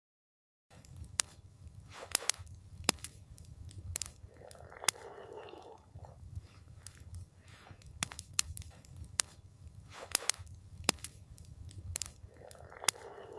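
Wood campfire crackling, with frequent sharp irregular pops and snaps over a steady low rumble, and twice a brief soft rushing sound. The first moment is dead silent before the fire sound cuts in.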